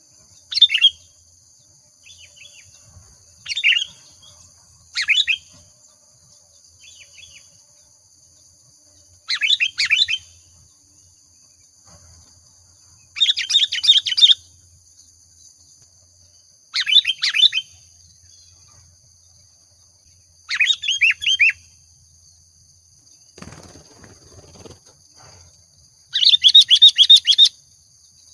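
Sooty-headed bulbul (kutilang) singing in full voice: short, bubbly, whistled phrases about a second long, repeated every few seconds. A steady faint high ringing runs underneath, and there is a brief rustle near the end.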